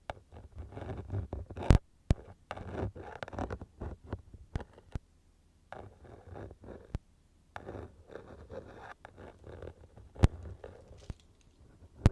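Static ear pick rubbed and swept inside a binaural microphone's ear: close, scratchy rustling in strokes of about a second, with short pauses between them and a few sharp clicks.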